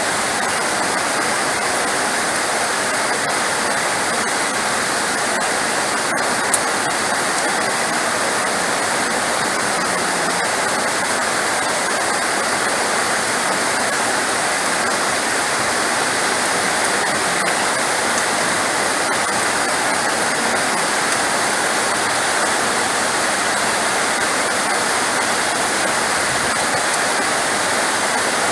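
Heavy rain falling steadily, a dense, even hiss with no thunder. There is a single faint click about six seconds in.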